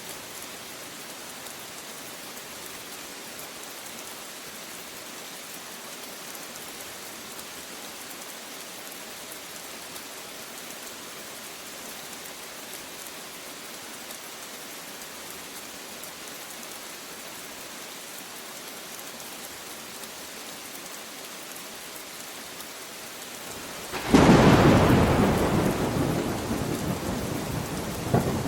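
Steady rain falling, then, near the end, a sudden loud thunderclap that rumbles and slowly fades.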